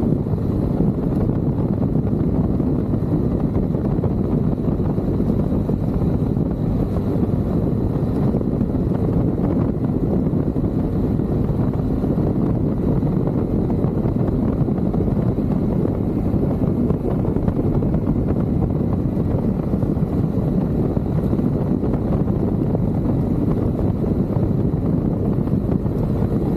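Motorcycle riding at a steady pace: a constant low rumble of engine and road noise mixed with wind on the microphone, with no change in speed.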